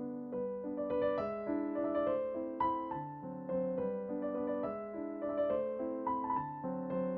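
Background piano music: a gentle melody of soft keyboard notes over a repeating accompaniment.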